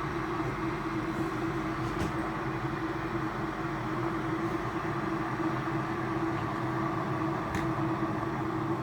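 Russell Hobbs Mode 3000 W electric kettle heating about one cup of water toward the boil: a steady rushing, bubbling noise that slowly gets a little louder, with two faint clicks. It is not too loud for a kettle.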